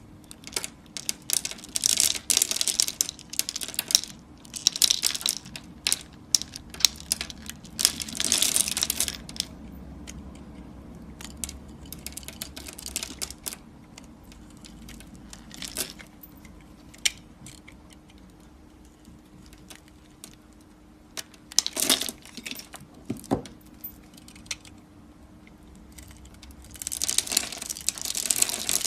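A knife cutting through dry bar soap, each stroke a burst of crisp crackling and clicking that lasts a second or so. There are several strokes with quieter gaps between them and a louder run of cutting near the end, over a faint steady hum.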